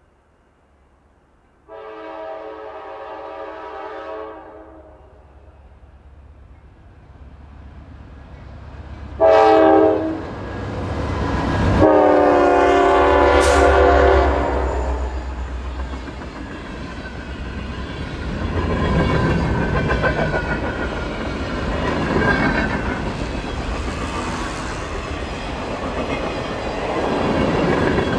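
Freight train diesel locomotive sounding its horn as it approaches: a long blast, a short loud blast, then a long blast as the engine goes past at about twelve seconds. After that comes the steady rumble and clatter of freight cars rolling by at speed.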